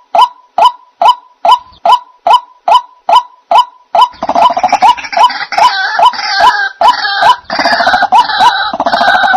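White-breasted waterhen calling: a steady series of short repeated notes, about two a second, then from about four seconds in a louder, harsher croaking call over the same rhythm, with a short break before it starts again and ends just before the close.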